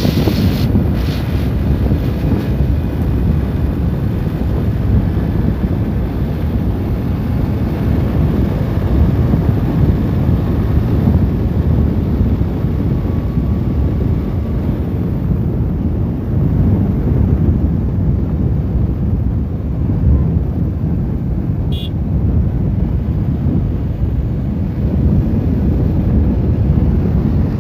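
Wind buffeting the microphone of a motorcycle rider at highway speed: a loud, steady low rumble of wind and road noise.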